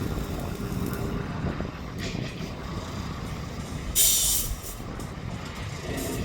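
Low steady rumble of passing heavy road traffic, with a short, loud hiss about four seconds in and a fainter one about two seconds in.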